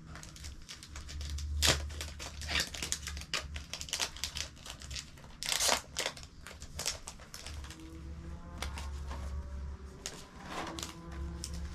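Toy packaging being handled: plastic and card crinkling with irregular clicks and rustles as small items are pushed back into the box, a fiddly fit.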